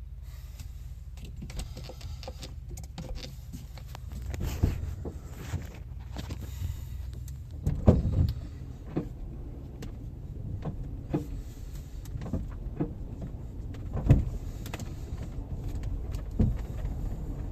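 Steady low vehicle rumble heard from inside a car cabin, with irregular knocks and thuds from the car's body and interior, the loudest about eight seconds in.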